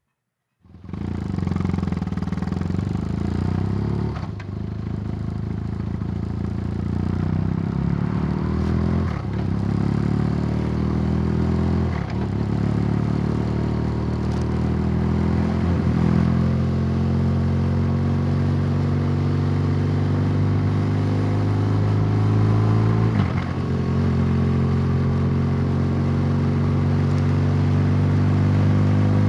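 Motorcycle engine running under way, starting about a second in; it climbs in pitch and drops briefly several times as the rider changes gear.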